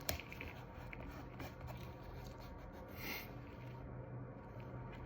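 Faint handling of medical tape being pressed and smoothed down over an IV catheter: a soft click right at the start and a brief scrape about three seconds in, over a low steady hum.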